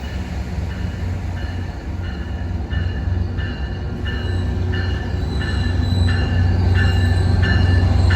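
Metrolink train pulling in behind an EMD F59PH diesel locomotive: a low engine rumble grows steadily louder, with a bell ringing in an even rhythm about every two-thirds of a second.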